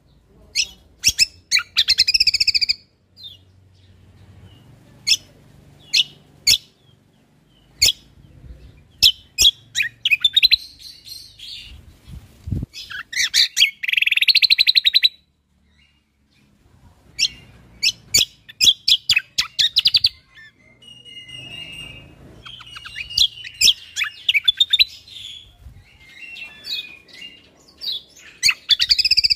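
Cucak kombo (kecial kombok) songbird singing in a string of bursts of rapid high chirps and buzzy trills with sharp clicking notes, each burst lasting one to three seconds, with short pauses between.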